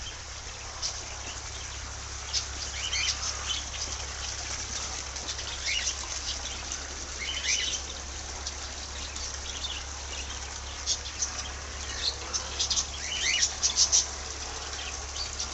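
Birds chirping: many short, high, rising chirps scattered throughout, coming more often in the second half, over a steady low hum.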